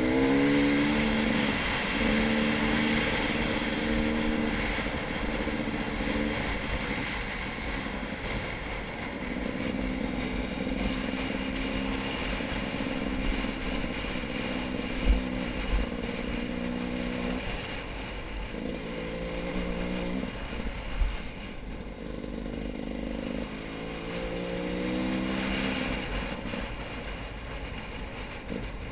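A motor vehicle engine running, holding steady for stretches with its pitch rising and falling several times as the engine speeds up and slows down.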